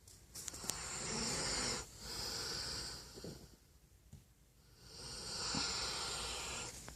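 A dog snoring: a hissing breath with a low rattle, then a shorter one, then a pause of about a second and a half before another long snoring breath.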